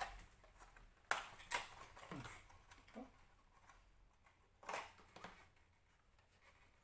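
A few faint, sharp clicks and taps of small plastic toy pieces being handled and set down, with two close together about a second in and two more near the five-second mark.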